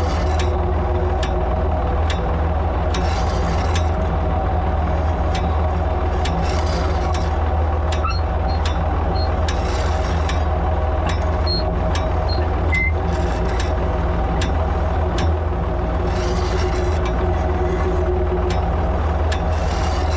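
Ford 3000 tractor's three-cylinder engine running steadily while pulling a Covington one-row planter, with regular mechanical clicking from the planter's mechanism, a bit under two clicks a second.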